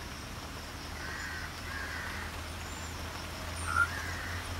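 Three short bird calls, the last one about four seconds in and the loudest, over a steady low hum.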